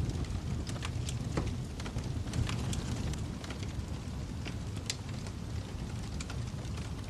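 Wood fire crackling in a fireplace: scattered, irregular pops and snaps over a steady low rumble of the flames, with one sharper snap about five seconds in.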